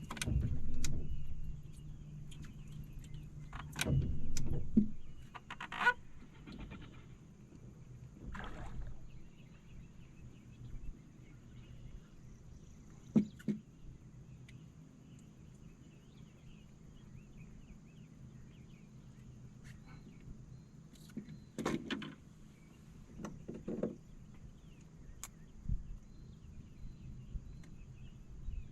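Scattered knocks, bumps and short rustles of gear being handled in a fishing boat, over a steady low hum.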